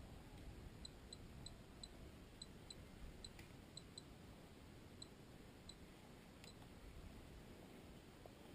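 Near silence: a faint low background rumble with about a dozen faint, short, high-pitched ticks at uneven intervals in the first six seconds.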